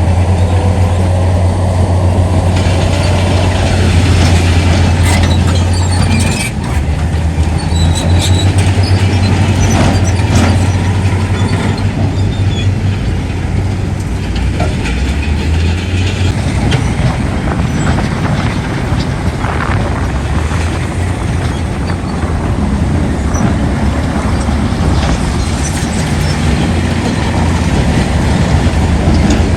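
Heavy diesel earthmoving machinery working: a loud, steady low engine drone with scattered metallic clanks and clicks, like steel tracks and buckets.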